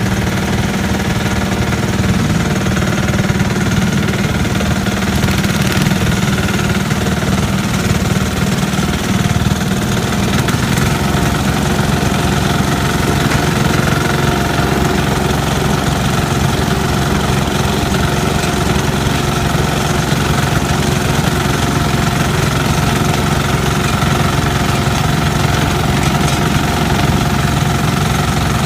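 Sears Suburban garden tractor engine running steadily, its note shifting to a different engine speed about ten seconds in.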